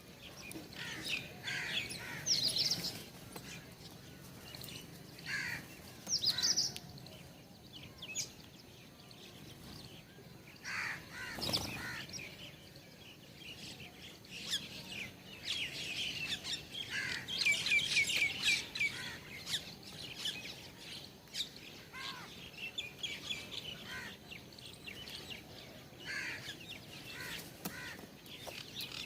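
Several small birds chirping in short, high calls, with a dense run of rapid chirps about halfway through and one louder, harsher call shortly before it.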